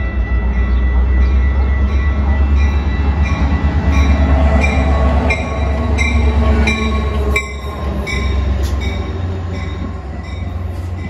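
Metra diesel locomotive pulling a passenger train past at close range, with a deep, steady engine rumble and a regular ringing strike about every two-thirds of a second. The rumble eases about seven seconds in, and the passenger cars keep rolling by.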